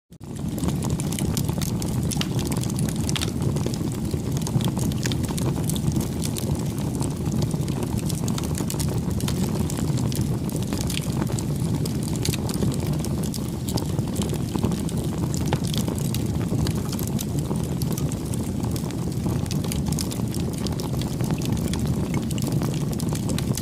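Bonfire burning: many small sharp crackles and pops over a steady low rush of flame.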